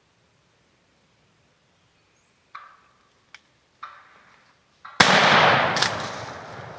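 A wild turkey gobbler putts twice in alarm, then a shotgun shot goes off close by about five seconds in, loud and sudden, echoing away through the woods.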